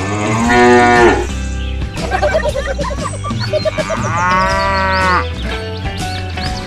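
A cow mooing twice, two long calls that rise and fall in pitch, the second longer, with shorter wavering pitched sounds between them over a steady low hum.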